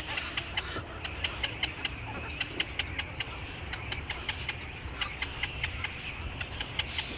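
A flock of small birds chirping and chattering together, many quick high chirps a second, over a steady low rumble.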